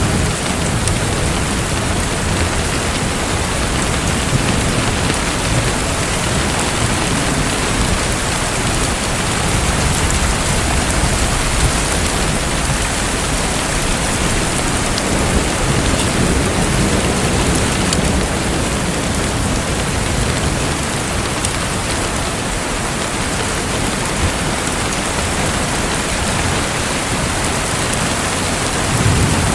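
Steady, dense water noise with a low rumble underneath, unchanging throughout.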